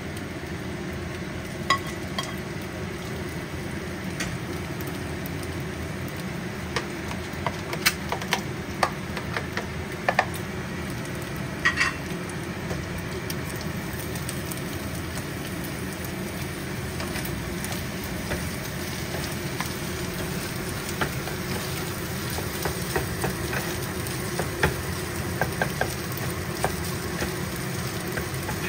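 Rice and egg sizzling steadily in a nonstick frying pan, with scattered clicks and taps as diced pork and shrimp go in and a wooden spatula stirs and scrapes the pan. A few sharper ringing clinks stand out near the start and around the middle.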